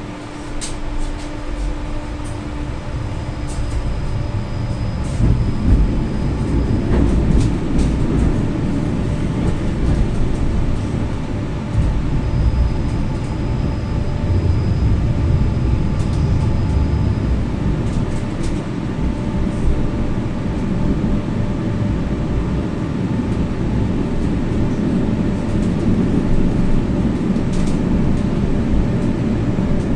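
Inside a moving tram: the wheels rumbling on the rails with the running noise of the car, growing louder over the first few seconds and then holding steady, with scattered short clicks and rattles.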